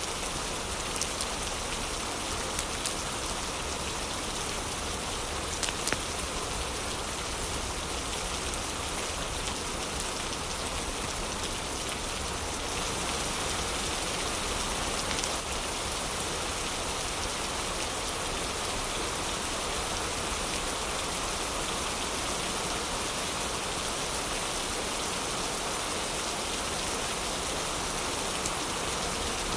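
Heavy rain falling steadily, with a few sharp crackles from a wood fire in the first six seconds.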